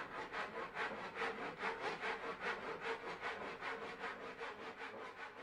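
Hand saw cutting a mitre through wooden molding, in rapid, even back-and-forth strokes of about five a second.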